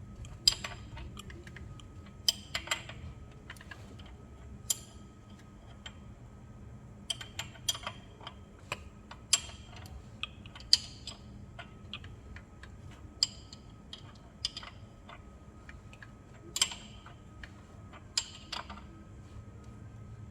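Sharp metallic clicks at irregular intervals, some in quick pairs, from a ratchet wrench turning a BMW F30 328i engine over by hand at the crankshaft, two revolutions to check the cam timing after a new timing chain. A steady low hum runs underneath.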